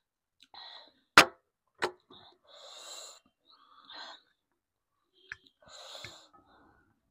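A person eating black bean noodles close to the microphone: several short, hissy slurps and mouth sounds. Two sharp clicks come about a second in; the first is the loudest sound.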